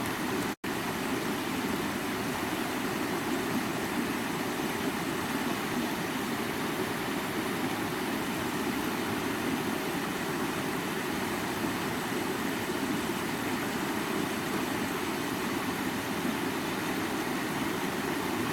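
Creek water running in a steady rush, with a momentary dropout about half a second in.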